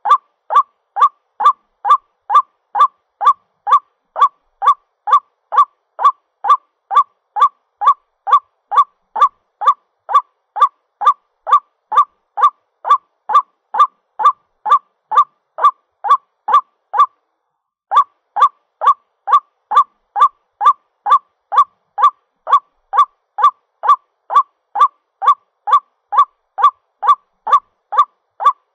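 White-breasted waterhen calling: a harsh, honking note repeated steadily about twice a second, with one break of about a second partway through. It is the bird's call to its mate, played as a lure.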